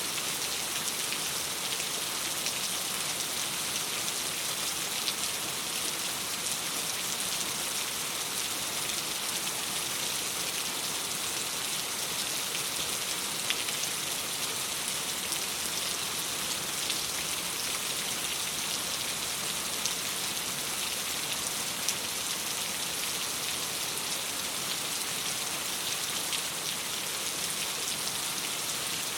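Steady rain against a window: a dense, even hiss with scattered faint ticks.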